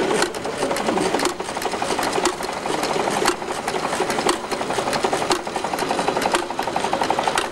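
Small engine running with a fast, even clatter and a louder knock about once a second.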